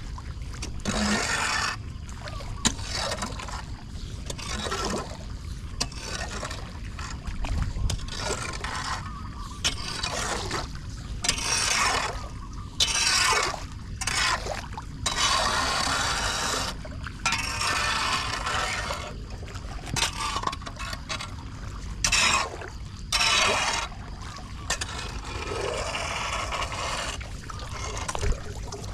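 Floodwater splashing and draining at a clogged storm drain while debris is scraped off the grate, in irregular noisy strokes over a steady rush of water.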